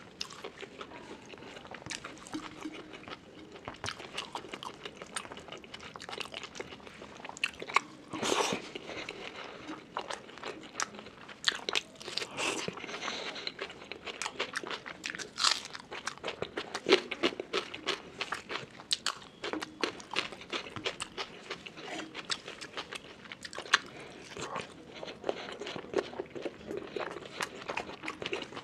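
A person chewing a meal of rice and curry close to the microphone: a steady run of mouth clicks and chewing, with louder bites now and then.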